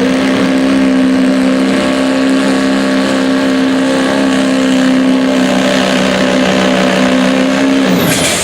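Pulling truck's engine running flat out at steady high revs as it drags the weight sled, then winding down sharply near the end as the throttle comes off.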